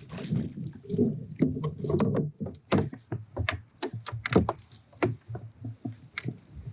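Irregular clicks, knocks and low thuds of fishing gear and hands against a plastic kayak hull while a hooked fish is reeled in.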